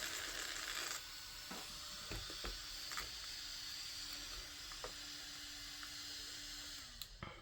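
Faint high hiss and a steady low hum from the powered-on brushless RC monster truck at rest between throttle bursts, with a few light clicks. The hum drops slightly in pitch and stops about seven seconds in.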